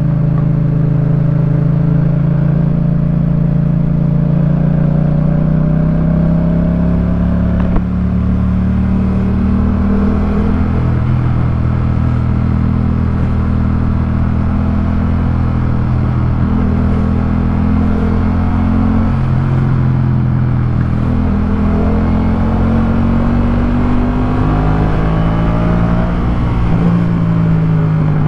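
Yamaha MT-07's 689 cc parallel-twin engine through a Jeskap K4 full exhaust, accelerating under load. The pitch climbs steadily, then drops at each gear change, several times over.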